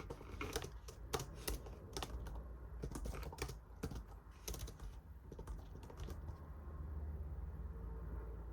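Typing on a computer keyboard: an irregular run of key clicks that stops about six seconds in.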